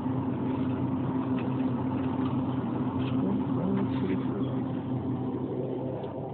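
A motor vehicle's engine running steadily, with an even low hum that fades slightly near the end.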